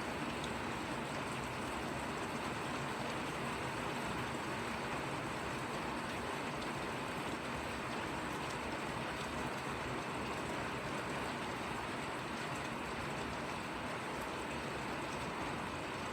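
Steady rain falling, an even hiss of drops with a few faint individual taps.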